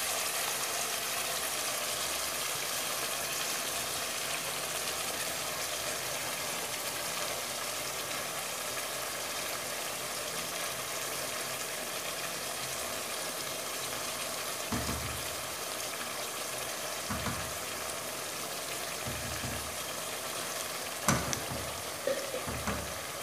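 Veal, onions and tomato sauce sizzling steadily in a pot as they fry. A few short knocks near the end, from the wooden spoon and spatula stirring against the pot.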